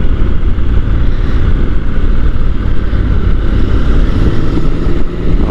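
Honda NC750 parallel-twin motorcycle engine running at a steady riding speed under wind rush, a loud, even low rumble.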